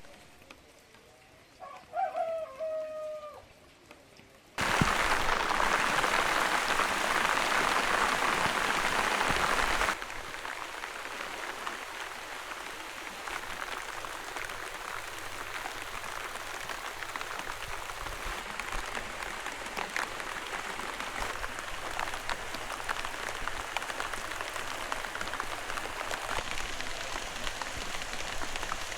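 Rain falling: heavy and steady from an abrupt start about five seconds in, then from about ten seconds lighter rain with many separate drops pattering. A brief pitched animal call comes about two seconds in.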